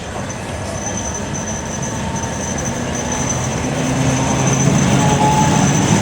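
Heritage electric tram running along the rails and coming closer, growing steadily louder, with a low motor hum rising in the second half.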